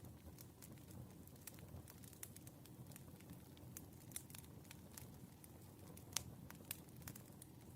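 Firewood burning, giving off scattered crackles and pops over a soft, low rumble of the fire, with one sharper pop about six seconds in.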